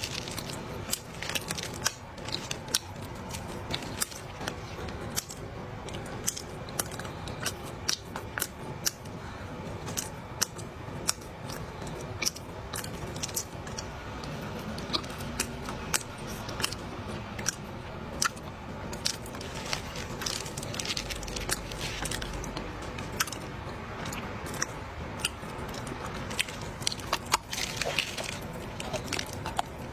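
A mouth chewing and crunching a mouthful of dry clay, a dense run of sharp crunches and crackles throughout.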